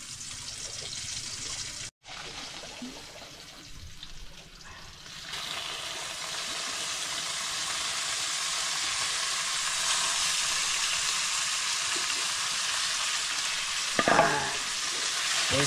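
Chopped squid tipped into a hot oiled pan and stirred: a quieter frying hiss swells into loud, steady sizzling about five seconds in. A short voice sounds near the end.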